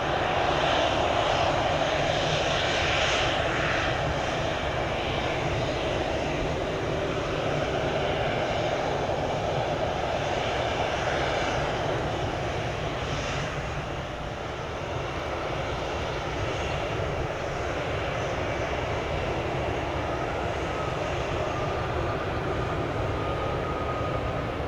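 Jet airliner engines running, a steady rush of noise that swells up at the start and holds, with a faint thin whine coming in near the end.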